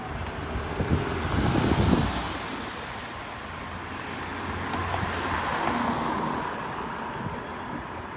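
Road traffic: a vehicle passes, loudest about two seconds in, then a second, softer swell of engine and tyre noise around five to six seconds in.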